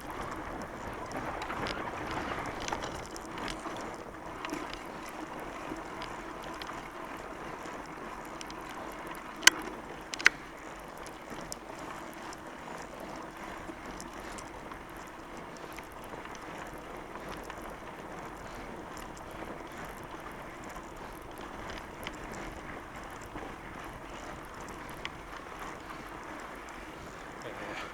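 Fat bike riding over a snow trail: a steady rush of tyre and wind noise, with two sharp clicks a little under a second apart about ten seconds in.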